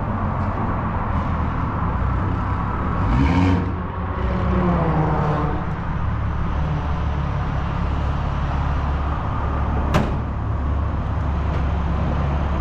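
Turbocharged BMW M3 engine idling steadily, with a brief swell in revs about three to five seconds in. A single sharp click sounds about ten seconds in.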